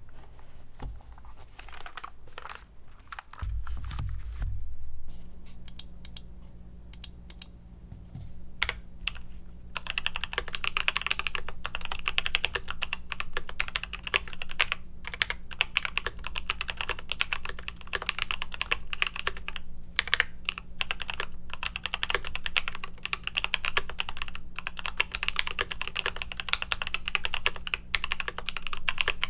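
Nuphy Halo65 mechanical keyboard with linear switches being typed on: scattered keystrokes with a low thump a few seconds in, then fast continuous typing from about ten seconds in.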